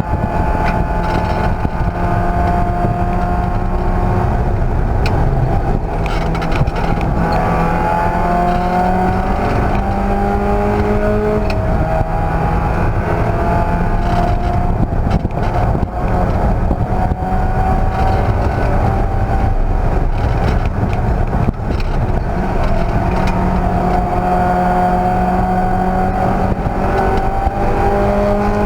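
Race car engine at speed, its pitch climbing under throttle and dropping back at gear changes or lifts several times, over a constant rush of noise.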